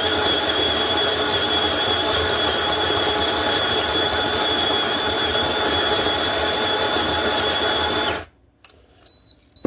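Zulay Kitchen electric burr espresso grinder running, its motor grinding coffee beans with a steady high whine, set off automatically by the portafilter. It stops suddenly about eight seconds in, at the end of its timed grind, and short electronic beeps follow near the end.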